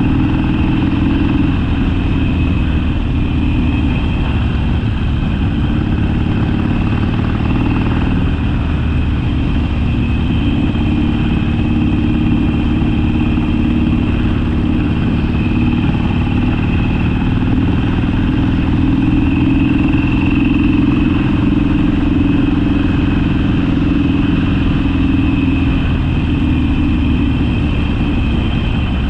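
Harley-Davidson Sportster V-twin engine running steadily while the bike is ridden. Its pitch drops about a second in, rises again about a third of the way through, and falls near the end as the rider eases the throttle.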